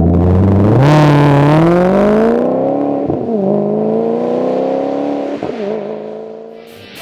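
Car engine accelerating hard through the gears. Its pitch climbs, drops at a gear change about three seconds in and again about five and a half seconds in, then fades toward the end.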